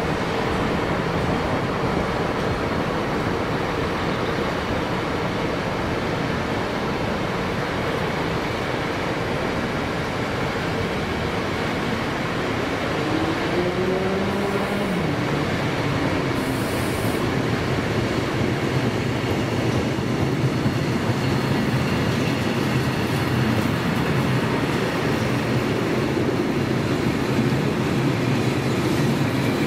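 A train running past on the line, with steady, loud wheel and running noise throughout. A brief tone rises and then falls about halfway through.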